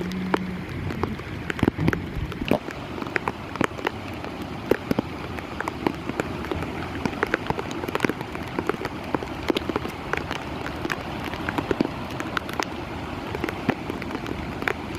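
Heavy rain falling, with many sharp, irregular drop hits close by over a steady hiss.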